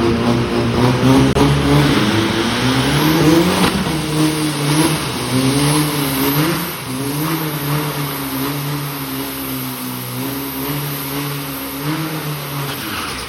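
Turbocharged drag-racing pickup truck engine revving loudly: its pitch climbs for about three and a half seconds, drops, then swings up and down unevenly before fading at the end.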